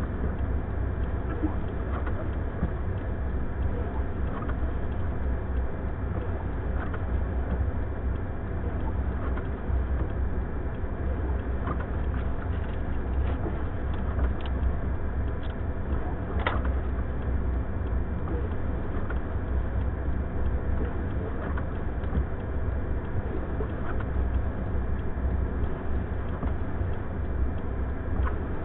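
Car engine running in a blizzard, with strong wind noise, heard from inside the car: a steady low rumble with a few faint clicks scattered through it.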